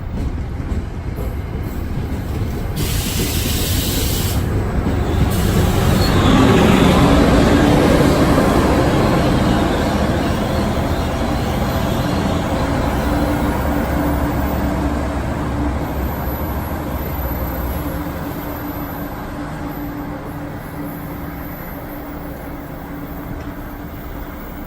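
NJ Transit train running past the platform: a deep rumble builds to its loudest about six to eight seconds in, then slowly fades, with a short hiss about three seconds in.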